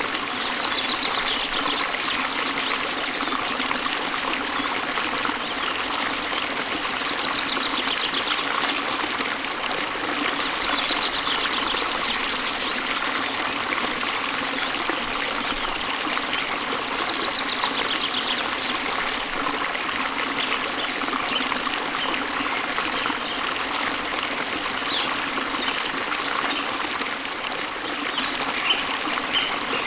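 Flowing water of a waterfall or stream, running steadily, with a bird singing short high trills every few seconds over it.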